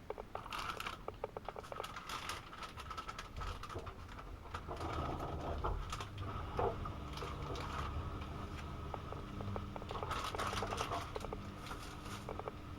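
AEG Öko Lavamat 72520 washing machine running through its cycle: rapid clicking and pattering from the drum, with a low motor hum that comes in about halfway through and stays steady.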